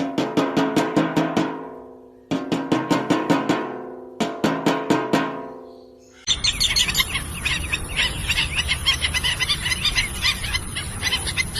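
Three short runs of rapid pitched drum strikes, each ringing out, like a musical drum-roll sting. About six seconds in, these give way to the dense, fast chirping of a small flock of birds over a steady high whine.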